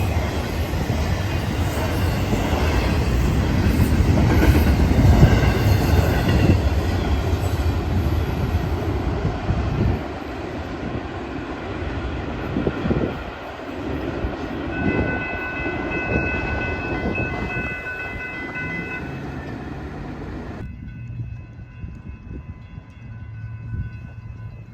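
Florida East Coast Railway freight train rolling past, its wheels and cars rumbling loudly for the first ten seconds, then fading. About fifteen seconds in, a steady horn chord sounds for about four seconds.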